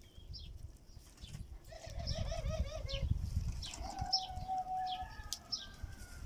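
Kept birds calling: a string of short, high, falling chirps, a warbling call about two seconds in, and a long steady call about four seconds in, over a low rumble.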